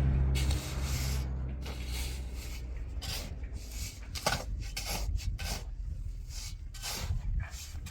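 Repeated short scraping strokes at an uneven pace of several a second, like a hand tool rasping or rubbing. A low engine hum dies away in the first second.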